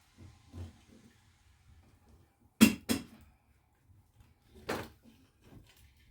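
Sharp knocks and clatters, two loud ones in quick succession about two and a half seconds in, another about five seconds in, with faint small clicks between.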